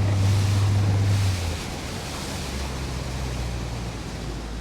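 Boat motor running under way, with wind on the microphone and water rushing. About a second and a half in the engine drops to a lower, quieter note.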